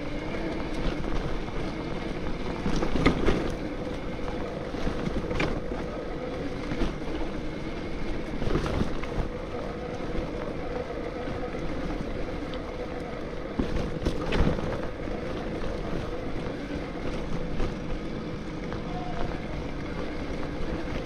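A 72-volt Bafang BBSHD mid-drive electric mountain bike motor whining steadily on the trail, with wind noise on the microphone, tyre noise and a few sharp knocks from the bike going over bumps; no creaking is heard.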